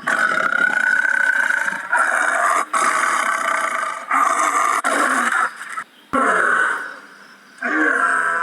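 Lion growling and roaring in a run of long calls, each a second or so, broken by short pauses.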